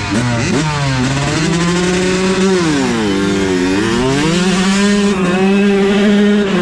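125cc dirt bike engine at high revs. Its pitch climbs and drops in quick steps through gear shifts in the first second, then holds high under steady throttle. It dips briefly and comes back up about three seconds in.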